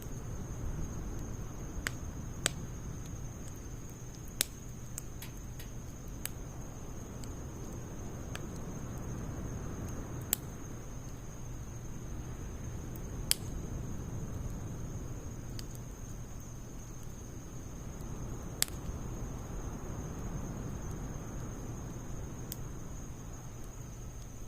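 A wood fire of logs and pine needles burning, crackling with sharp, irregular pops every second or few seconds over a steady low rush.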